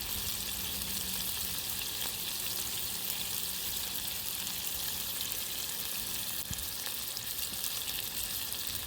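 Beef hamburger patties sizzling in a frying pan: a steady hiss with fine crackles.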